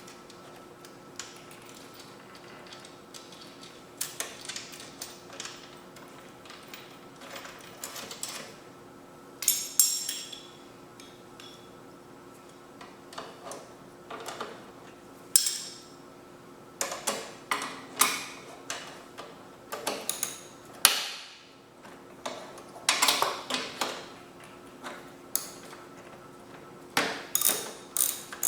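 Ratchet wrench clicking in short runs, tightening the bolts on a lawnmower's handle, over a steady faint hum.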